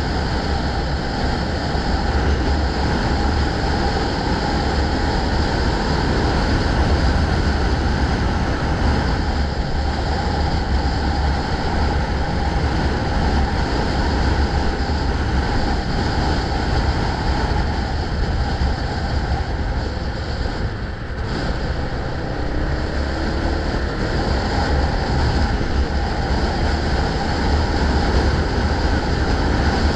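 Steady wind rumble on the microphone, mixed with road and traffic noise from riding, with a brief lull about two-thirds of the way through.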